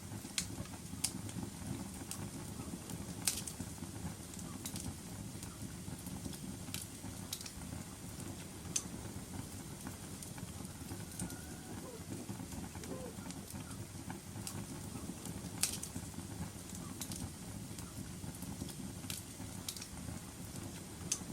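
Wood fire crackling in a fireplace: a steady low rumble of flames with about a dozen sharp pops at irregular intervals.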